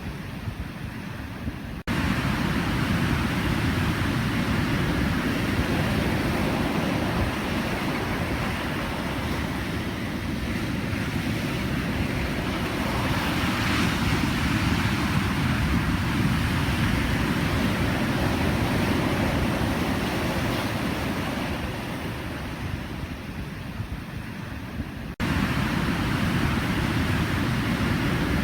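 Pacific Ocean surf: a steady rush of waves breaking and washing, heaviest in the low end, swelling a little about halfway through. The level jumps up abruptly twice, near the start and near the end, like splices in the recording.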